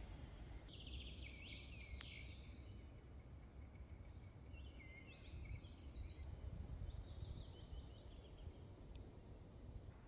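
Faint birdsong: quick trills and chirps repeating from about one to eight seconds in, over a low rumble.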